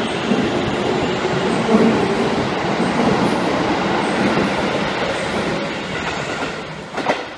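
Electric commuter train running along a station platform, its wheels rumbling on the rails. The noise fades from about six seconds in, and there is one sharp knock near the end.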